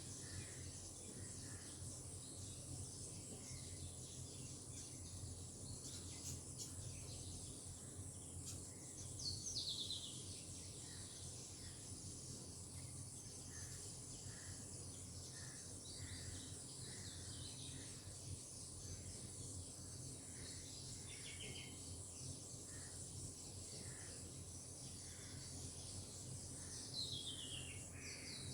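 Outdoor nature ambience: a steady high-pitched insect drone, with a bird repeating short soft notes. Twice, about nine seconds in and again near the end, a bird gives a quick run of notes falling in pitch.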